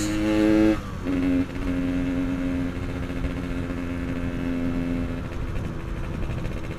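Yamaha RX-King's single-cylinder two-stroke engine running steadily under way, with a brief drop in its note about a second in, as if the throttle eased, before settling back to an even hum.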